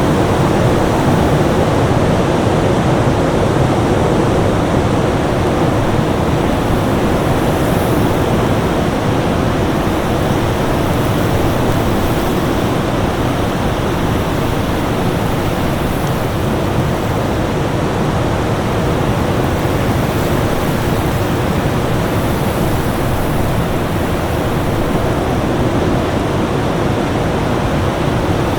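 Winter storm ambience: a steady, even rush of storm wind noise with no gusts or breaks, carrying a faint steady hum.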